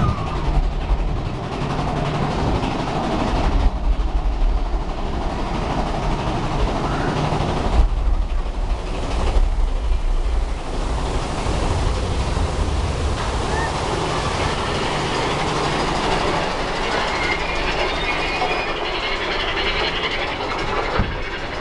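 Big Thunder Mountain Railroad mine-train roller coaster running along its track: a continuous low rumble with rattling and clacking from the cars.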